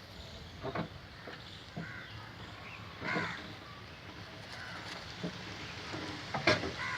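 Scattered sharp knocks and clinks of hand tools on metal, the loudest near the end, with a crow cawing once about three seconds in.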